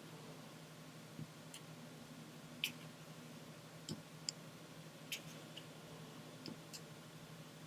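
Diamond painting: small resin drills tapped and pressed with a drill pen onto the sticky canvas and tray, giving light, sharp clicks at an irregular pace of about one a second. A faint steady low hum runs underneath.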